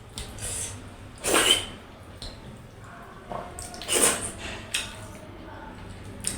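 Close-up eating noises of a person eating dhido: a handful of short, wet mouth sounds, the two loudest about a second and a half in and about four seconds in.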